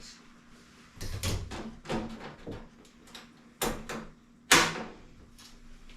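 Handling noises from the diesel heater and a measuring tool being moved about: a series of short knocks and scrapes, the loudest a sharp knock about four and a half seconds in.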